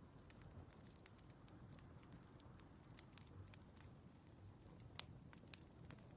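Faint crackling of a burning wood fire: irregular small pops and snaps over a low steady hiss, the sharpest pop about five seconds in.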